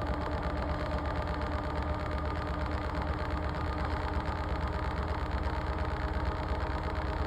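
Washing machine running: a steady motor hum with a few constant tones over it, unchanging throughout.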